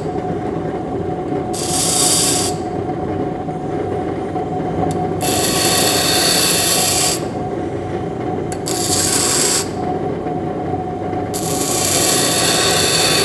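Running grinding wheel with a steady motor hum, and a drill bit's steel end pressed to it four times, each contact a hiss of one to two seconds. The passes grind away the bluish-purple metal left by overheating.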